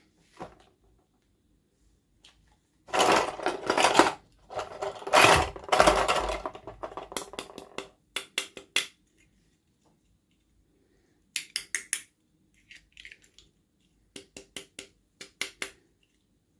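Hard plastic toy packaging and doll parts being handled: a few seconds of rustling and scraping, then several quick runs of sharp clicks and taps.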